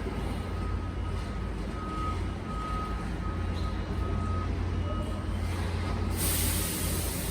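Garbage truck running with a steady low rumble while a high warning tone beeps on and off, then a loud hiss of released air starts about six seconds in.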